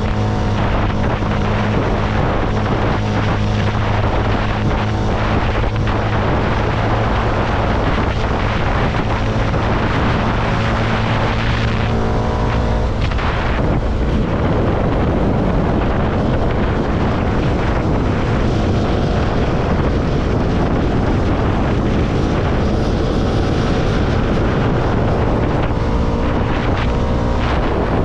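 CFMoto motorcycle engine running under way, its pitch shifting about halfway through and again near the end as the revs change, with heavy wind noise on the microphone.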